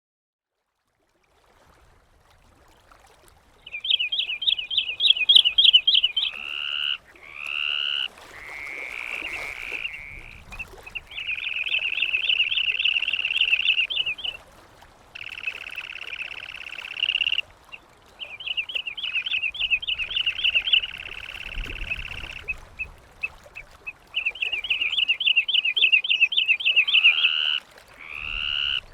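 Seabirds calling in bursts of a few seconds: runs of fast, high, repeated notes alternating with longer, drawn-out calls, starting about four seconds in.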